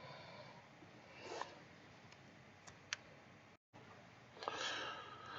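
Near silence: quiet room tone with a few faint clicks and soft rustles.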